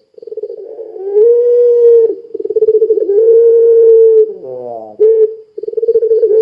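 Puter pelung dove giving its long, wavering call: a fast trembling coo that swells into two long held notes, with a quick falling slide about four seconds in before the trembling coo starts again.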